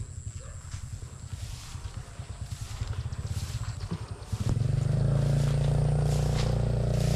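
An engine running with a low pulsing rumble; about four and a half seconds in it becomes much louder and steadier.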